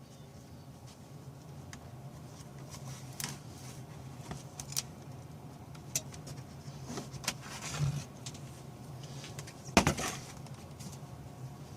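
Scattered small clicks and taps of objects being handled, with a louder knock about ten seconds in, over a steady low hum.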